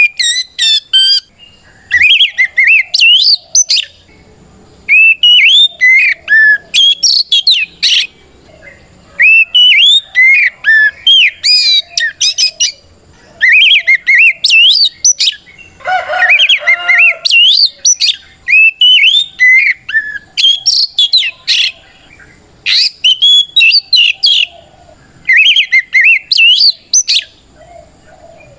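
An Oriental magpie-robin singing loudly: repeated bursts of rich, sweeping whistled phrases with short pauses between them, and a harsher, lower phrase about halfway through. This is the full, open 'ngeplong' song of a male calling out a rival to fight.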